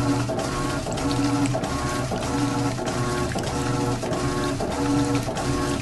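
Electrolux LTC10 top-loading washing machine agitating a wash load: the motor hums in short strokes less than a second apart as the agitator turns back and forth, with water sloshing.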